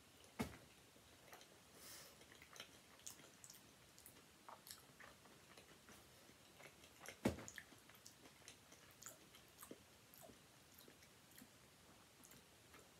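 Faint chewing of a mouthful of sub sandwich, mouth closed, with soft scattered clicks and two sharper clicks, about half a second in and about seven seconds in.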